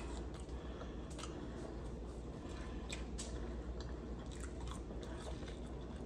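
A person chewing crispy fried food, with faint irregular crunches from the crust.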